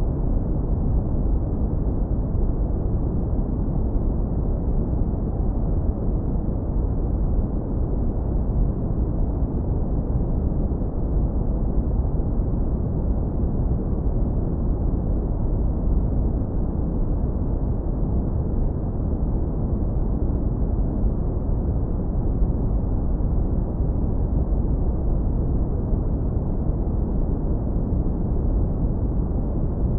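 Synthetic brown noise, heavily low-pass filtered: a continuous, even, deep rumble with its energy in the low end and nothing above about 2 kHz.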